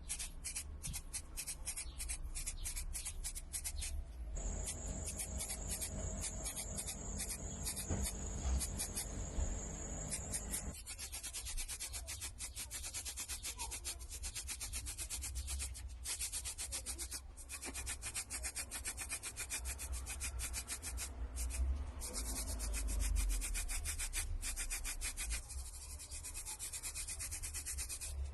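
Rapid back-and-forth rubbing, like sandpaper worked by hand in many short strokes. A steady high whine runs alongside it from about four seconds in until about eleven seconds.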